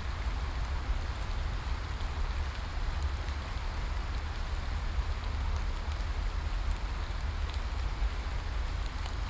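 Steady rain falling, an even hiss with faint scattered drop ticks and a constant low rumble underneath.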